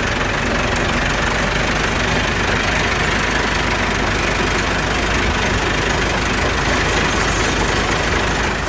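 A tractor's diesel engine running loud and steady, its level dropping off right at the end.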